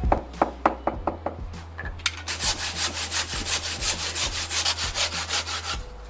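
Hand-tool work on building material: a few sharp knocks, then from about two seconds in fast, even back-and-forth sawing strokes, several a second, stopping shortly before the end.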